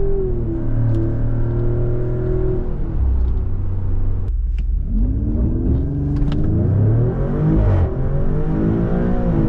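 Maserati Grecale Trofeo's twin-turbo V6 running under load, its revs easing off about three seconds in and cutting out briefly a second later. It then pulls with rising revs for about three seconds, dipping slightly before climbing again at the end.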